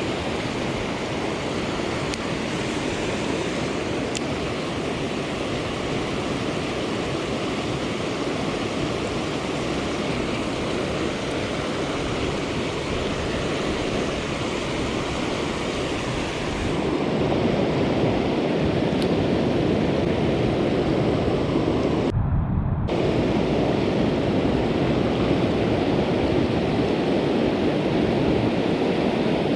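Steady rush of a fast-flowing stream swollen after rain, growing louder a little past halfway, and briefly muffled about three quarters of the way through.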